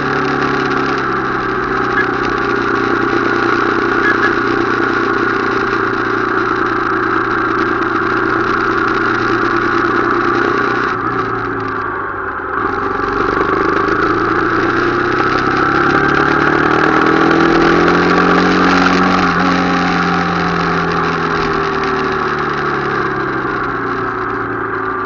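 Motorcycle engine running while riding, with a steady rushing noise behind it. About halfway through the engine note drops briefly, then climbs again as it picks up speed.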